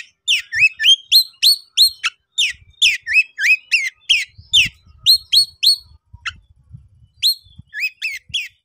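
Oriental magpie-robin (kacer) in an excited, high-energy song: a rapid string of short, sharp whistled notes, each a quick upward or downward sweep, about three a second, with a brief thinning past the middle. This is the agitated challenge song that calls out rival birds.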